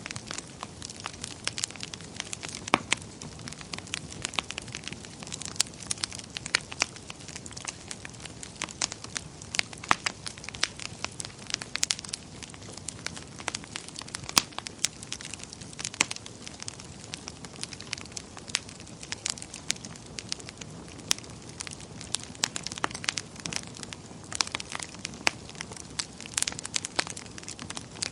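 Wood fire burning in a fireplace, crackling and popping with irregular sharp snaps over a steady low hiss.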